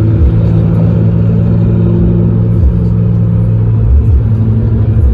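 A car engine running steadily: a loud, low, even drone.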